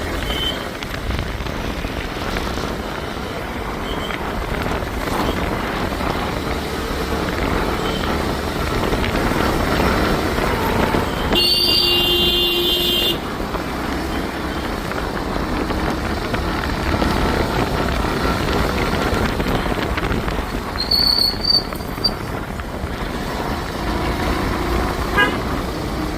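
Busy city street traffic, a steady rumble of engines and road noise. A vehicle horn sounds for nearly two seconds near the middle, and a couple of short horn toots come later.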